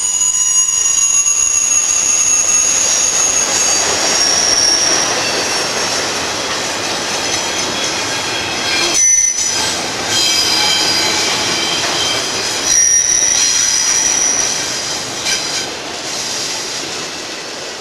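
Freight train rolling past, its steel wheels squealing against the rails in several high, steady tones over the rush and rumble of the cars. The sound eases off toward the end.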